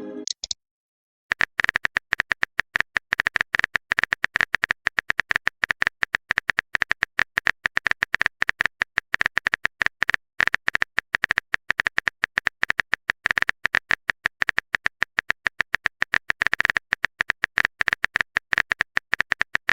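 Typing sound effect: a rapid, continuous run of sharp keyboard clicks, starting about a second in.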